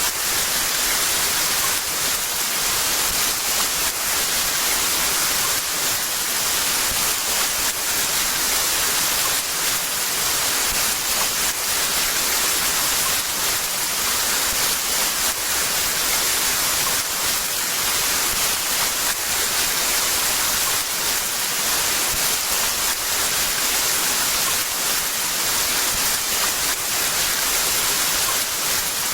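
Heavy rain falling steadily, a dense even hiss of drops with faint patter throughout.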